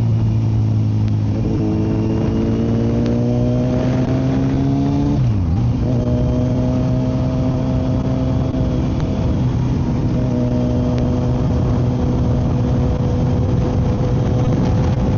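Kawasaki Z900's inline-four engine through a full M4 exhaust, heard from a mic inside the rider's helmet. The engine note climbs under throttle for a few seconds, drops sharply about five seconds in, then holds steady at cruising speed.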